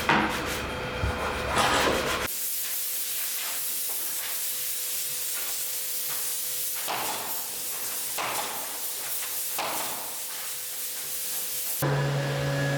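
A steady hiss that starts abruptly about two seconds in and gives way near the end to a low, steady machine hum.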